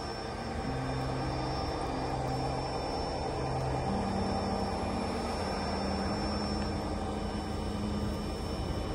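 Steady rumble of a train heard from aboard, with a low droning hum that steps to a different pitch about four seconds in.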